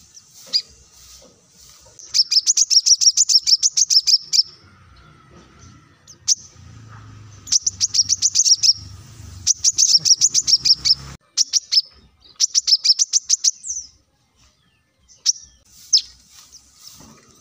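Brown-throated sunbird (kolibri kelapa) singing: rapid trains of high, sharp chirps in bursts of two or three seconds, three or four bursts, with single short calls in the pauses and toward the end.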